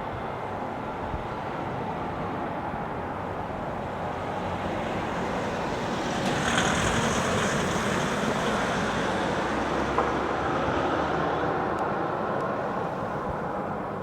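A vehicle passing close: a steady rushing noise that swells to its loudest about six to eight seconds in, with a high hiss at the peak, then eases off a little.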